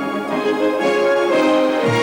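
Orchestral music with strings, growing louder and fuller about halfway through.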